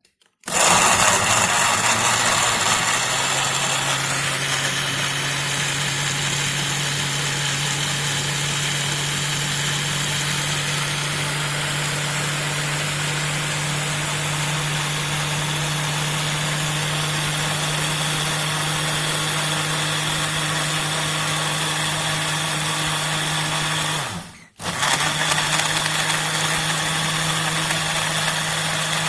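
Electric blender motor running, grinding chopped beetroot and carrot in water. It starts about half a second in, cuts out for a moment near the end, then starts again.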